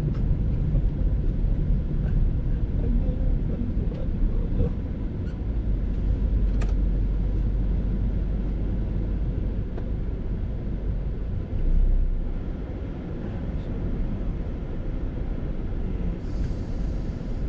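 Steady low rumble of a moving vehicle, with one short click about six and a half seconds in.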